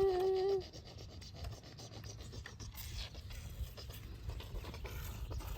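A brief hummed voice note at the very start, then faint irregular scratching and scraping of dirt and sand as plastic toy construction trucks are pushed and moved through it.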